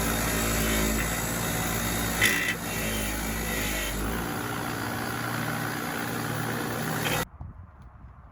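An engine running steadily, with one sharp knock about two seconds in; the sound cuts off abruptly about seven seconds in.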